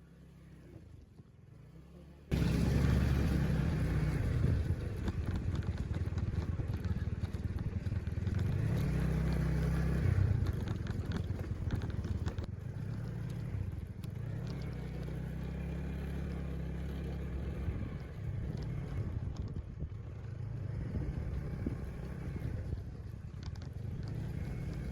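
Motorcycle running on the move, a steady low rumble with slow swells in engine pitch and wind noise, starting suddenly about two seconds in after a short quiet stretch.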